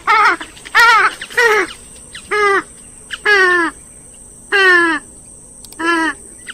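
Grey-headed swamphen calling: a run of about eight harsh, nasal calls, the first four close together within a second and a half, the later ones longer and spaced more widely.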